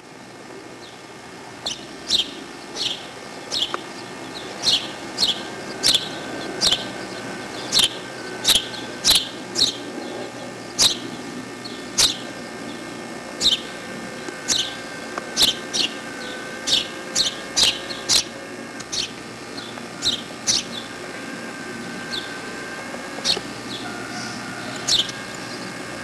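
A bird chirping over and over: short, sharp, high chirps about once a second or faster, thinning out after about twenty seconds.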